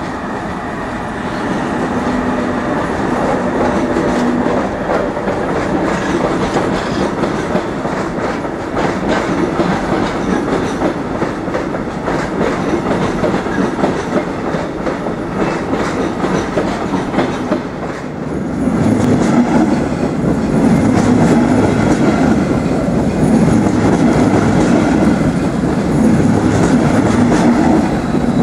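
A train rolling through the station with its wheels clacking rhythmically over the rail joints. It grows louder about two-thirds of the way through.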